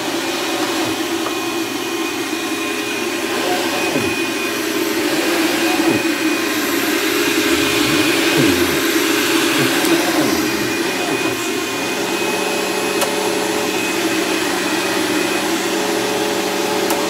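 Dirt Devil Ultra Vision Turbo upright vacuum cleaner running steadily with a constant hum and a thin whine, on a worn brushroll belt that the owner says needs replacing.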